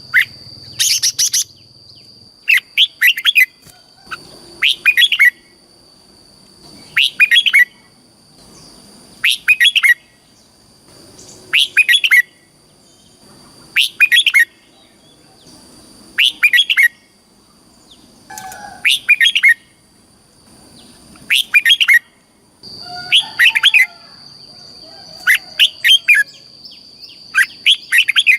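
Red-whiskered bulbul singing: short, loud, bubbling whistled phrases of about a second each, repeated roughly every two seconds, over a steady faint high-pitched tone.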